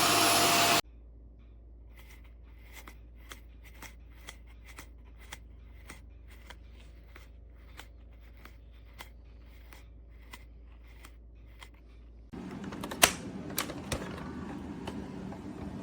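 Shark Stratos upright vacuum running, then cutting off abruptly less than a second in. Faint regular clicking follows, about two clicks a second. Near the end a louder steady noise starts, with one sharp click.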